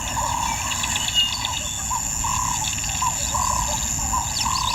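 Bush ambience: a bird calls over and over in short notes about twice a second, over a steady high insect buzz, with other small birds chirping.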